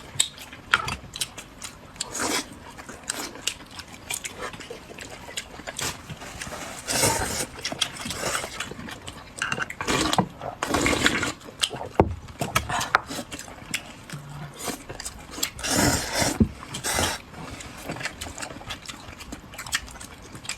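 Close-miked eating sounds: wet chewing and slurping, with many irregular clicks and several longer noisy bursts a few seconds apart.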